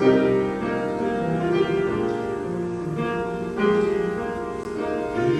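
Piano or church keyboard playing slow sustained chords.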